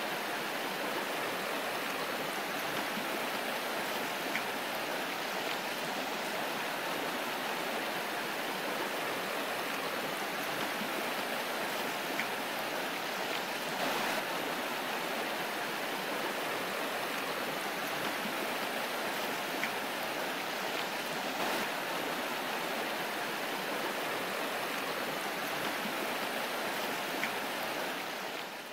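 A river's water rushing steadily, fading out near the end.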